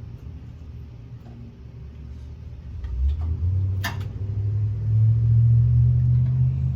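Low rumble of a nearby vehicle's engine, growing louder about three seconds in and strongest near the end, with a sharp click about four seconds in.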